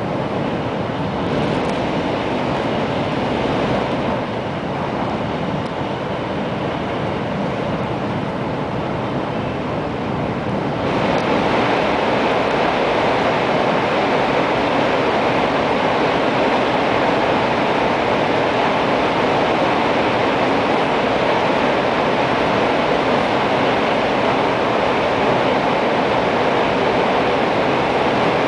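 Cabin noise of an N700 series 8000 Shinkansen running at speed: a steady rushing of wind and running noise. About eleven seconds in it jumps louder and brighter as the train enters a tunnel.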